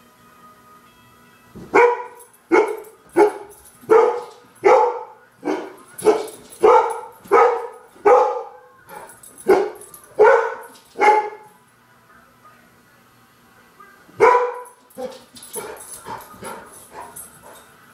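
Dog barking at the door, alerting at a supposed visitor: a run of about fourteen loud barks, roughly one and a half a second, then a pause, one more loud bark and a few quieter ones near the end.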